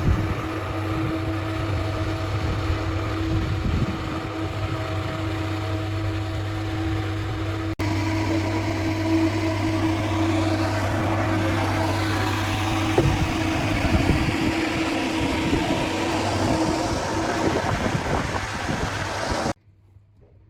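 Machinery running with a steady low drone and a steady hum, typical of motors in a tyre-recycling plant. There is a brief break just under eight seconds in, and the sound cuts off abruptly near the end.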